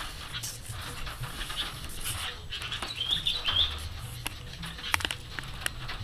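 Bulbuls fluttering inside a wire-mesh aviary: flapping wings, scattered clicks and rustles against the perches and mesh. A few short high chirps come about three seconds in.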